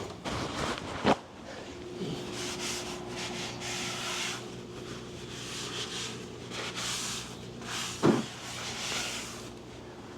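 Rubbing and scraping from parts being handled, with two sharp knocks, one about a second in and one about eight seconds in, over a faint steady hum.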